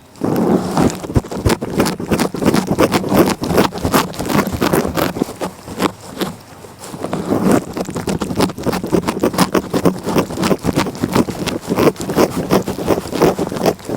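A cat licking close to the microphone: a dense run of rapid small clicks and scrapes, with a brief lull about six seconds in.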